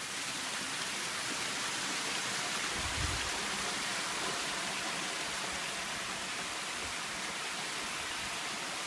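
Steady rush of a waterfall, fading in at the start, with a brief low thump about three seconds in.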